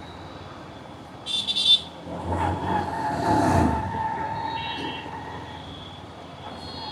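Town street traffic heard from a riding motorcycle: a short high horn toot about a second in, then a vehicle engine swelling and fading over a couple of seconds, with a brief fainter horn in the middle.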